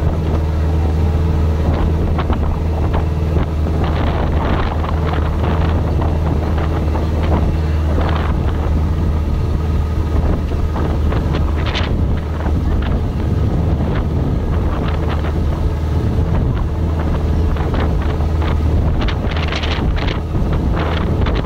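Small motorboat's engine running steadily under way, a constant low drone, with wind buffeting the microphone.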